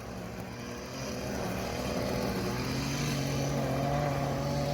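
A motor vehicle's engine running with a steady hum that grows louder from about a second in.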